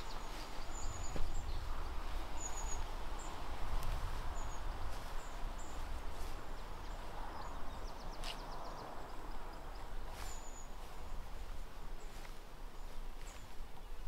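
Small songbirds singing: many short, high chirps and two brief rapid trills, over a steady outdoor background hiss and low rumble.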